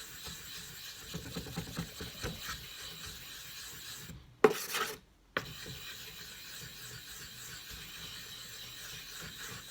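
A small stone rubbed back and forth on a wet 4,000-grit whetstone, a steady gritty scraping that works up slurry on the fine stone. A little under halfway the scraping drops out briefly around one sharp, loud knock.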